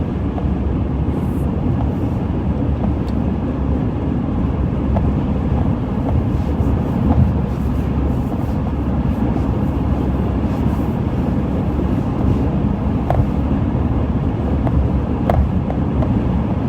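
Steady road noise of a car driving on the freeway: an even low rumble, with a few faint ticks.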